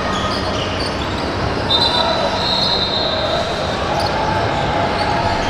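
Basketball game sounds in a gym: a ball bouncing on the hardwood floor amid crowd chatter echoing in the hall, with a high squeaking tone, such as sneakers on the court, from about two seconds in.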